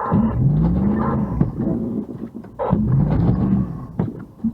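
Car engine revving in repeated surges, each rising in pitch and then holding, as the vehicle stuck in deep snow is driven back and forth to get free. A couple of sharp knocks come between the surges.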